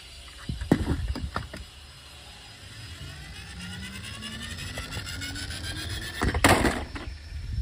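Toy cars being handled: a few clicks and knocks, then a small motor's whine rising slowly in pitch for several seconds, and a short loud rush of noise near the end.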